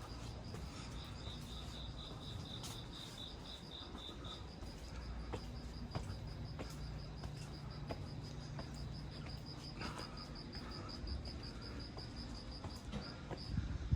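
Crickets chirping in rapid, regular pulses, one high-pitched and steady, with a second at a slightly lower pitch joining for a few seconds near the start, over a faint wash of rain and scattered light ticks.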